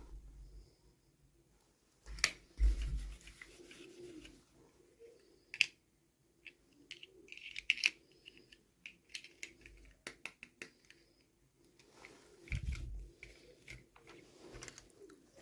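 Small plastic toy packaging being handled and opened: scattered clicks, short crinkling and rustling, and soft low thumps about two and a half seconds in and again near the end.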